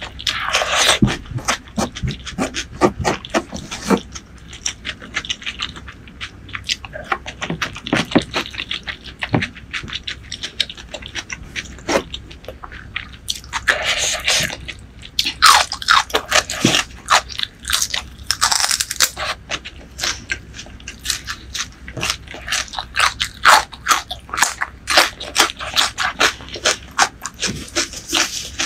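Close-miked eating sounds: wet chewing of curry food, made up of many quick clicks, with a few short hissy stretches near the middle.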